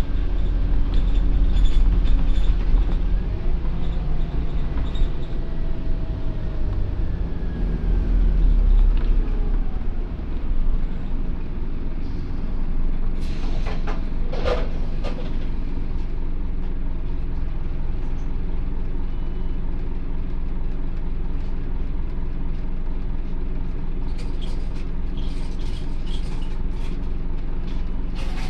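Scania OmniCity N230UD double-decker bus's diesel engine and driveline heard on board. It works hard with rising and falling whines for the first ten seconds, then settles into a steadier run. A short hiss of air comes about fourteen seconds in.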